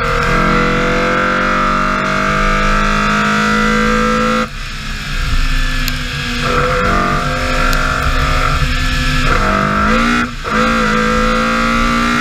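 BMW E30 M3 rally car's four-cylinder engine pulling hard with its pitch climbing steadily, then dropping off suddenly about four and a half seconds in as the throttle comes off. It picks up and climbs again, with a quick break and renewed rise near the end, like a gear change under power.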